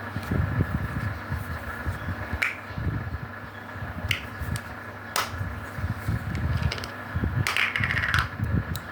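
Hands handling a cleanser box and tube: a few sharp clicks and a brief crinkling rustle near the end, over low bumps from handling and a steady faint hum.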